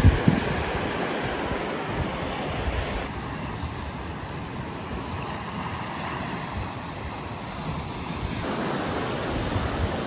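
Steady rush of surf with wind buffeting the microphone, the low rumble strongest in the first second. The sound changes abruptly about three seconds in and again near the end, like cuts between clips.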